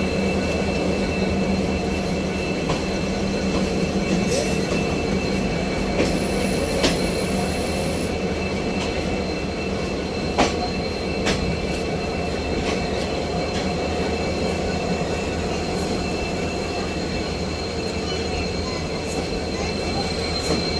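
Train running on the rails: a continuous rumble with a steady high-pitched wheel squeal and scattered sharp clicks from the wheels over the track, the loudest click about ten seconds in.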